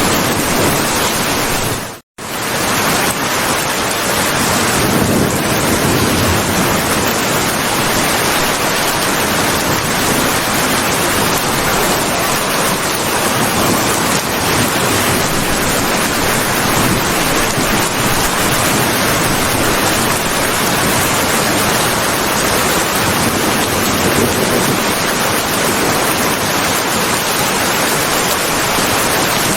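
Heavy, steady rainfall: a dense, even hiss of downpour. It cuts out to silence for a moment about two seconds in, then swells back.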